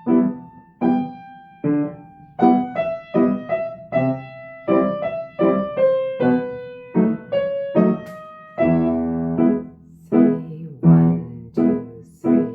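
Piano played with both hands: a melody of single notes over chords, turning to fuller chords with a deeper bass about eight and a half seconds in.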